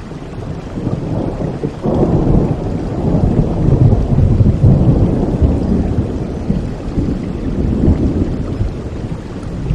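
Rolling thunder over steady rain: a deep rumble that swells suddenly about two seconds in, peaks around the middle and slowly dies away.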